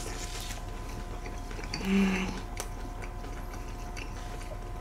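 Quiet chewing of a mouthful of burger, with a few faint clicks and a short low hum about two seconds in.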